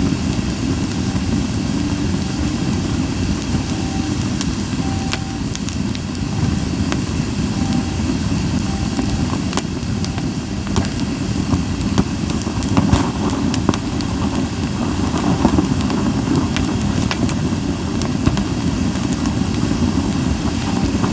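Japanese white pine wood fire burning, with sporadic sharp crackles and pops over a steady low rumble.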